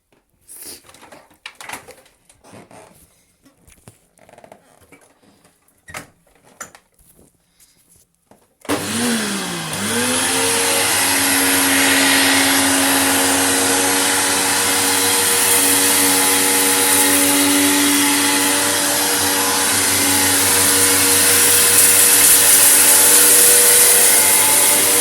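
Scattered light clicks and crunching, then about nine seconds in an upright vacuum cleaner is switched on: its motor spins up within a second and runs steadily with a high whine.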